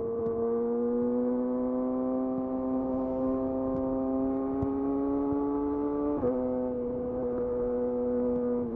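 Yamaha YZF R6's inline-four engine through a de-catted Akrapovic slip-on exhaust, running at high revs under load with its pitch slowly climbing. About six seconds in the pitch drops suddenly, as on an upshift, then holds nearly steady.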